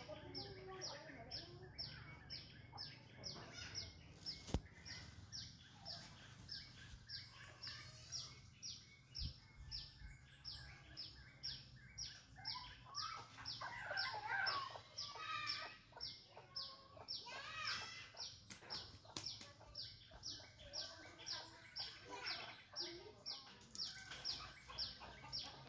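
Faint background birdsong: a short, high chirp repeated evenly about two to three times a second, with chickens clucking now and then, most around the middle. A single sharp click comes about four seconds in.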